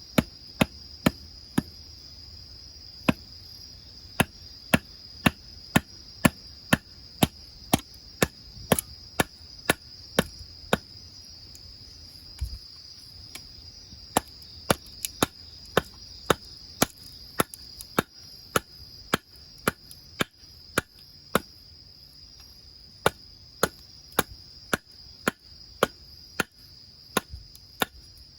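Sharp knocks, about two a second, in runs with short pauses between them, over a steady high chirring of insects.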